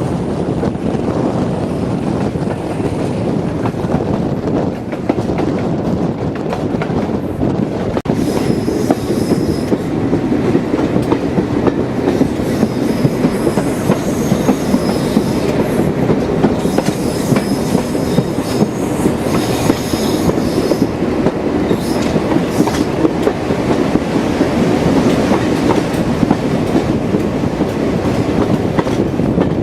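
Diesel-hauled heritage train running along the line, a steady loud rumble of wheels and running gear, with a high-pitched wheel squeal coming and going through the middle.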